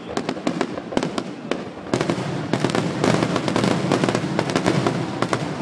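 Fireworks display going off: a rapid run of sharp bangs and crackles that grows denser and louder about two seconds in.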